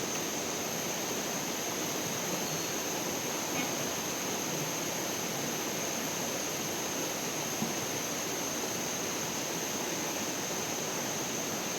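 Steady outdoor background: an even rushing hiss with a constant high-pitched tone above it, unchanging throughout.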